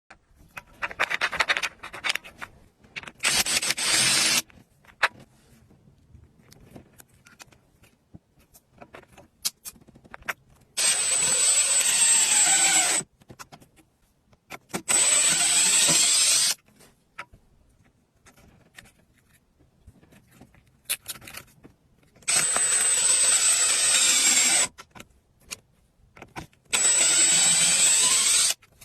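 A power tool running in short bursts of about two seconds, five times, with light clicks and knocks of handling in between.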